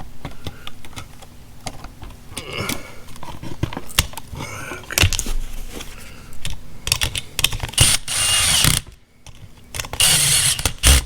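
Cordless drill-driver running in two short bursts near the end, driving screws into an electrical switch box, after a run of clicks and rattles from handling the switch and wires.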